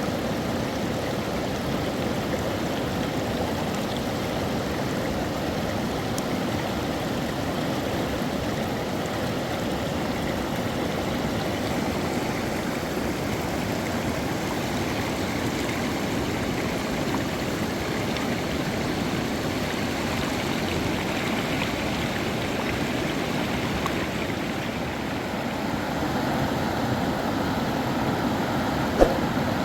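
River water running steadily, an even rush of flowing water with no change in level. A single sharp click near the end.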